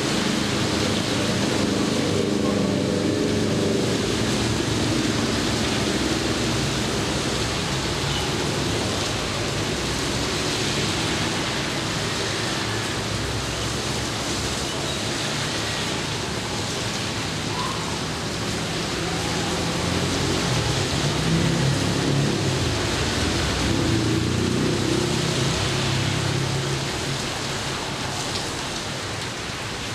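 Steady heavy rain, an even hiss throughout. A low engine drone rises over it at the start and again from about two-thirds of the way in.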